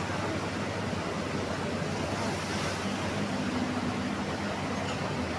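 A vehicle engine humming steadily under a constant rushing noise, as from a vehicle on the move.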